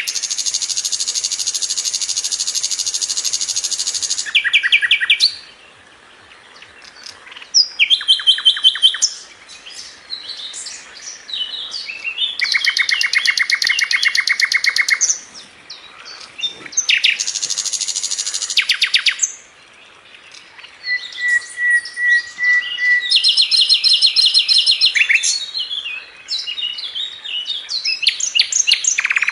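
Sikatan londo flycatcher singing in long, fast, tightly repeated rattling phrases a few seconds each, broken by short pauses, with one brief steady whistled note about two-thirds of the way through.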